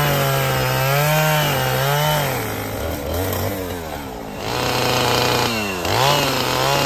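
Two-stroke chainsaw cutting into a tree trunk, its engine pitch wavering up and down as the bar bogs and frees in the cut. It sags lower and quieter in the middle, then revs back up near the end.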